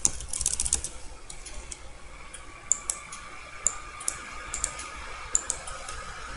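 Typing on a computer keyboard: a quick run of keystrokes in the first second, then single key clicks every second or so.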